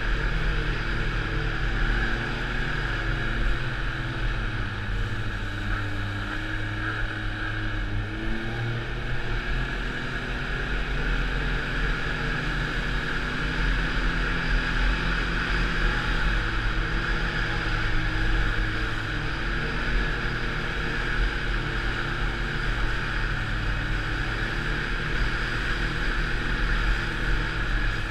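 Snowmobile engine running steadily under way, its pitch drifting up and down a little, over a constant rushing noise.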